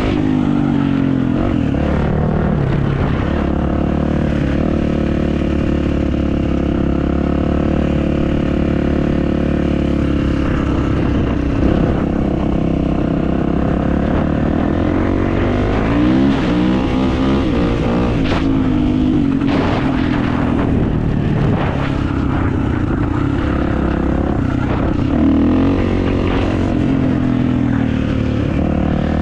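Kawasaki motocross bike's engine running under way, its pitch rising and falling several times with the throttle.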